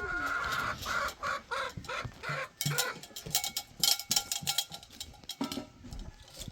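Chickens clucking: a run of short repeated calls, then sharper, noisier calls from about halfway through.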